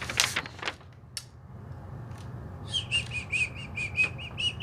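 A rapid, evenly spaced series of about ten short, high chirps, about five a second, starting a little past halfway, after a few faint handling clicks.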